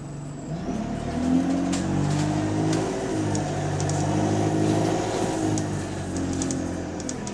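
Bus engine pulling under load, its note rising in pitch about a second in, holding, then easing off near the end, on a bus with a leaking exhaust. Faint light ticks and rattles sound over it.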